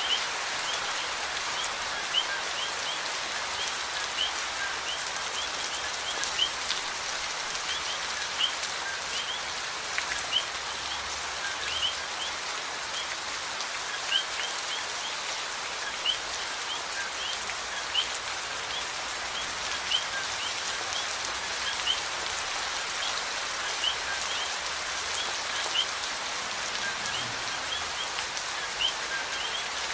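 Steady rain falling, an even hiss of drops, with short high chirps repeating every second or so over it.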